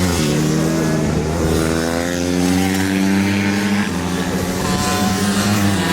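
Pit bike racing engines revving hard, with the pitch climbing and then stepping down at a gear change about four seconds in.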